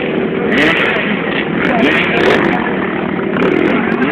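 Motocross bike engines revving and easing off, several engine notes rising and falling over one another.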